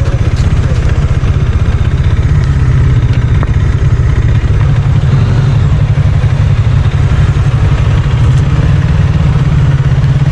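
Motorcycle engine running steadily during a ride, a loud low drone of rapid, even firing pulses.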